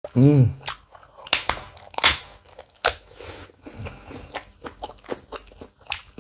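Close-miked eating of crunchy food: a short hummed voice at the very start, then sharp bites and crunches and wet chewing clicks.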